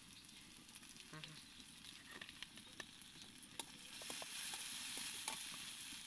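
Chilli powder, onions and green chillies sizzling in hot oil in a steel kadai, with the clicks and scrapes of a steel spatula stirring them. The sizzle grows louder about two-thirds of the way in, as the stirring starts.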